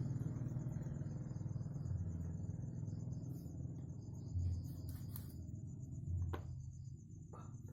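Crickets chirping in an even pulsing rhythm over a low steady rumble that slowly fades, with a few soft clicks in the second half.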